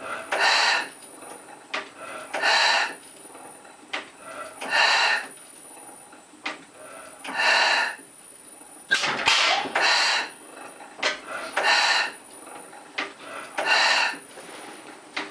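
1880s Otto-type 2 hp slide-valve four-stroke gas engine running slowly: a loud hissing puff about every two to two and a half seconds, with sharp clicks in between.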